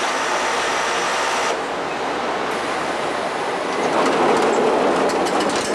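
A rail vehicle running along the track: a steady rumble that swells about two-thirds of the way through, with a few sharp wheel clicks near the end.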